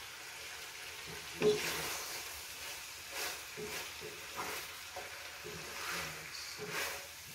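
Pork liver and vegetables sizzling in a frying pan while being stirred with a wooden spatula, which scrapes and knocks against the pan in irregular strokes, the strongest about one and a half seconds in.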